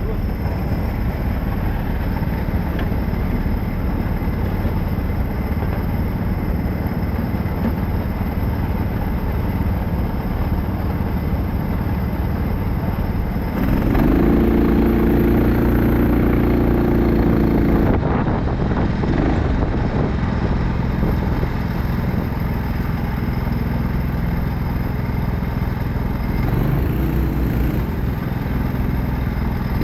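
Kart engines running continuously. About halfway through, a nearer engine holds a steady louder note for a few seconds, and another briefly rises near the end.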